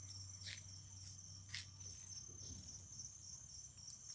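Crickets chirring in a steady, faint high-pitched drone, with a few faint short ticks.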